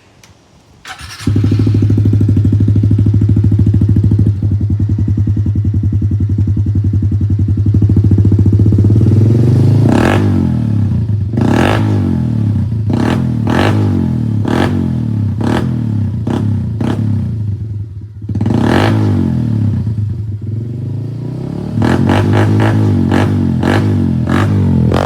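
Honda CRF110 pit bike's single-cylinder four-stroke engine, breathing through an FMF 4.1 exhaust with no spark arrestor, starts about a second in and idles steadily. From about ten seconds on the throttle is blipped again and again in quick revs that rise and fall back, with a short idle between runs of revving.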